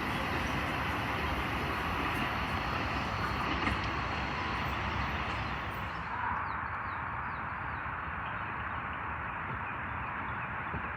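A passing train makes a steady rumbling noise. The high hiss falls away about six seconds in.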